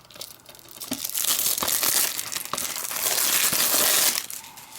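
Cardboard slipcover being slid and rubbed along a plastic DVD case: a steady scraping rustle that starts about a second in and stops shortly before the end, with a few small clicks before it.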